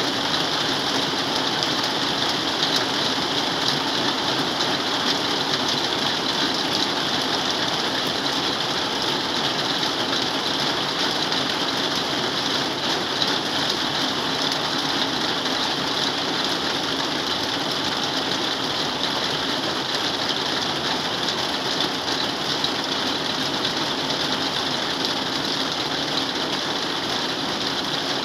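Heavy rain falling steadily on a corrugated metal roof: a dense, even hiss of drops with no let-up.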